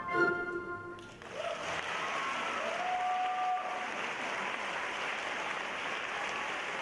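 Ballet music ends on a final chord about a second in. Then an audience applauds steadily.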